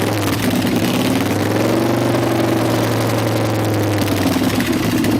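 Superbike engine running through its exhaust: a steady, loud note whose pitch rises and falls gently about two to three seconds in.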